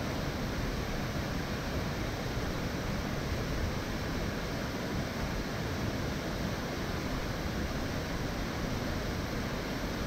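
Nachi Falls, a tall waterfall, with its falling water making a steady, even rush of noise.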